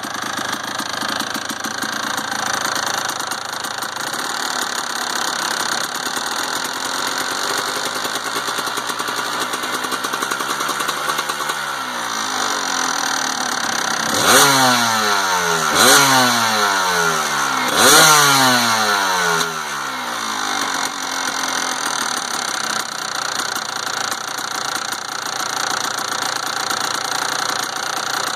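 The two-stroke single-cylinder engine of a 1992 Kawasaki KDX200 idling with a rattle, blipped three times about halfway through, each rev dropping back down. The owner is unsure whether the rattle is normal.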